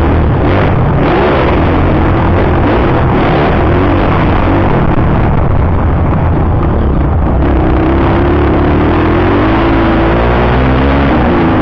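Motocross bike engine running loud, its revs rising and falling as it is ridden, over a constant heavy noise.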